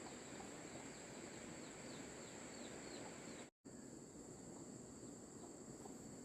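Insects droning steadily in one high, thin tone over faint rural background hiss, with a few small chirps in the first half. The sound cuts out completely for an instant a little past halfway.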